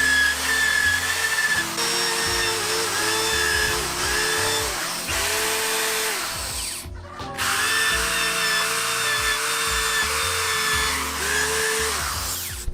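Electric drill spinning a steel wire brush against bare metal to strip paint and rust. The motor's pitch sags each time the brush bears down and then recovers. It stops briefly about seven seconds in, then starts again.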